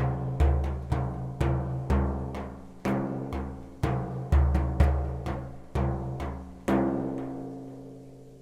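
A deep, pitched drum struck steadily about twice a second, each beat ringing. The last beat, near the end, is left to ring out and fade.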